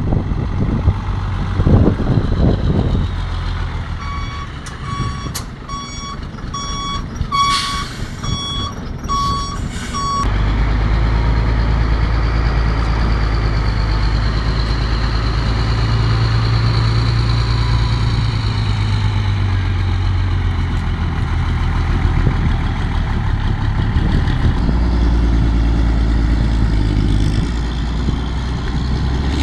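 A vehicle's reversing alarm beeps steadily, close to two beeps a second, for about six seconds, then stops. A heavy engine then drones steadily and low for the rest of the time.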